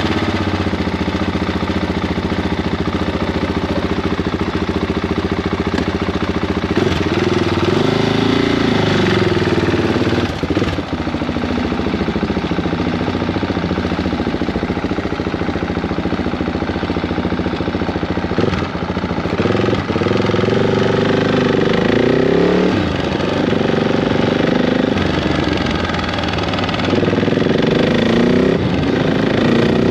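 Freshly rebuilt KTM 690 Duke single-cylinder engine running, the revs rising and falling about three times, as when the motorcycle is ridden off and shifted through the gears to test the rebuild.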